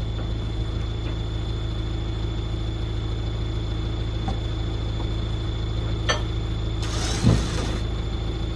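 A vehicle engine running with a steady low hum. A sharp click comes about six seconds in, and a short rustle with a thump just after seven seconds.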